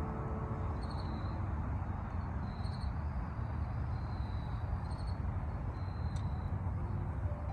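A short, high chirp repeating about every two seconds over a steady low rumble.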